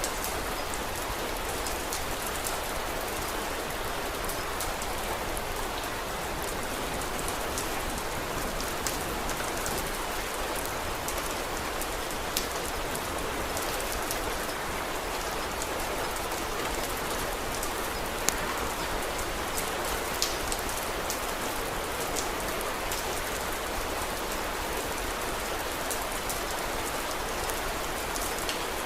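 Steady rain falling, with many small sharp ticks over it and a few louder ones in the middle.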